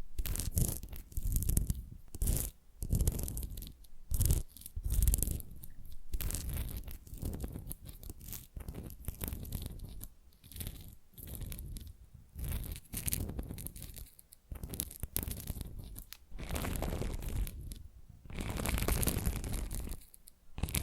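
Close-miked ASMR fingernail scratching and rubbing: irregular strokes of varying length with a deep bass thud of contact near the microphone, two tracks layered left and right.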